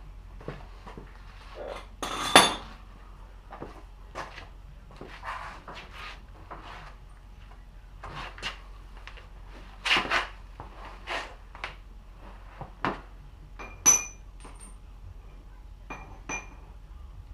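Scattered metallic clinks and knocks of tools and steel parts being handled and set down, irregular, with the loudest about two seconds in and near fourteen seconds, a few leaving a short bright ring.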